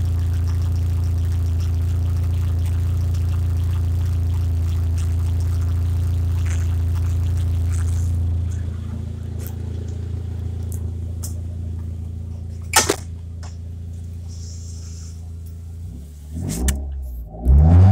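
2018 Mitsubishi Outlander's 2.4-litre MIVEC four-cylinder petrol engine idling steadily, loud under the open bonnet and then quieter as heard from inside the cabin. There is a single sharp knock about thirteen seconds in. Near the end the engine is blipped, its pitch quickly rising and falling.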